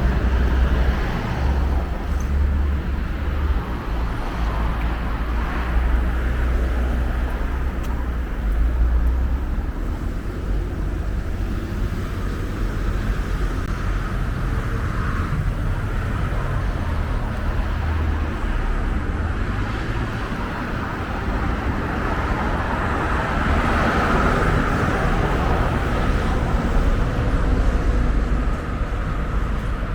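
Street traffic: road vehicles running past with a steady low rumble. A vehicle swells louder about twenty-four seconds in.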